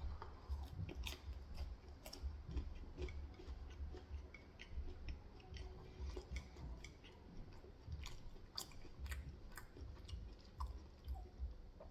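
A person chewing food close to the microphone: soft, irregular wet clicks and small crunches.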